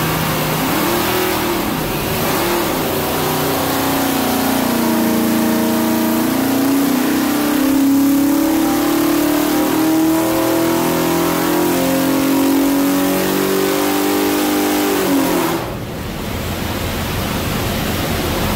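632-cubic-inch big-block Chevy V8 running on an engine dyno. It is blipped briefly a couple of times, then held at a steady higher rpm for about ten seconds, and near the end drops back to a lower speed.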